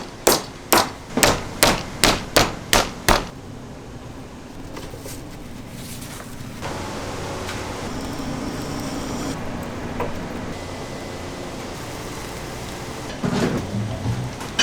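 A quick series of about eight sharp chopping blows, two to three a second, for the first three seconds. After that comes a steady background hum with a few faint knocks.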